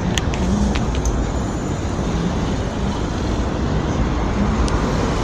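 City street traffic and road noise heard from a moving bicycle: a steady low rumble, with a few light clicks about a second in and one more near the end.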